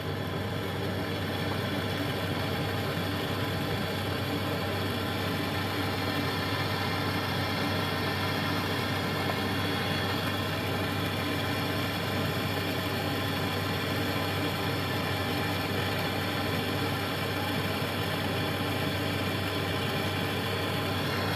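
A steady, unchanging mechanical drone with a constant low hum and many steady tones, running without a break.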